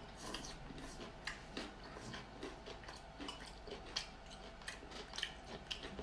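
Close-miked chewing of a mouthful of rice and braised pork: wet mouth clicks and lip smacks at an irregular pace, a few a second.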